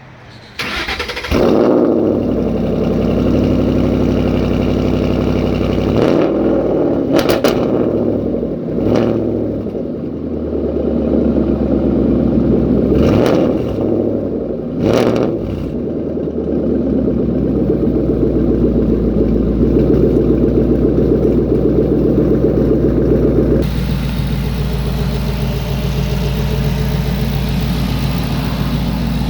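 2012 Ford Mustang GT's 5.0-litre V8 through a Roush exhaust starting up about a second in, then running at a fast idle. It is revved briefly several times between about 6 and 16 seconds in, then settles into a steady idle.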